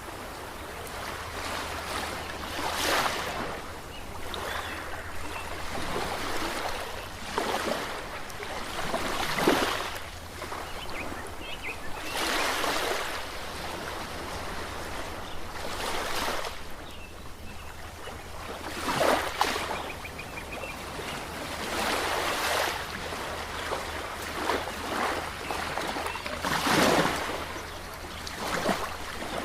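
Ocean waves washing and splashing against the shore, a surge every few seconds over a steady wash of water, with a faint low hum underneath.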